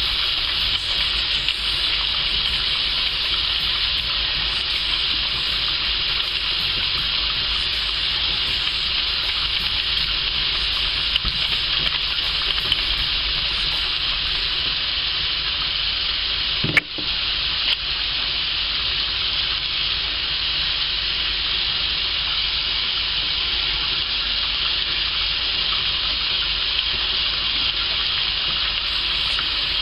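Tap water running steadily into a sink, with one brief click about 17 seconds in.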